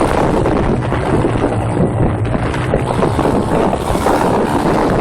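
Four-stroke pit bike engine running under throttle while riding off-road, with wind buffeting the onboard microphone.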